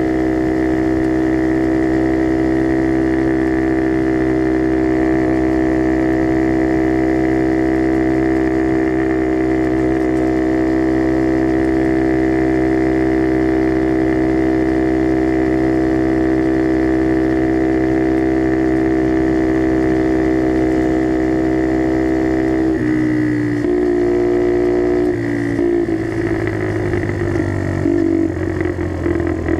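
Skyteam Dax mini-bike engine running through an aftermarket carbon exhaust, holding a steady drone at constant revs. About 23 seconds in, the pitch drops and then shifts in steps as the revs change.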